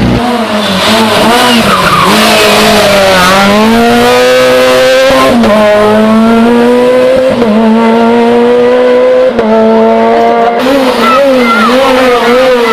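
Rally car engine revving hard on a special stage, its note dipping and climbing again, then held high with several brief drops in pitch, with some tyre squeal.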